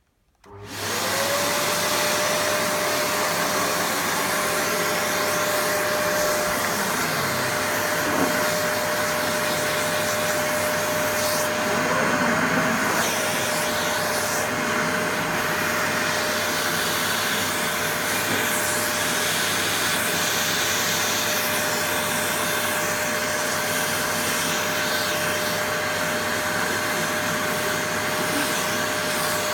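Vacuum cleaner switched on, its motor whine rising to speed within the first second and then running steadily with a whooshing rush of air. About twelve seconds in the pitch briefly dips and recovers.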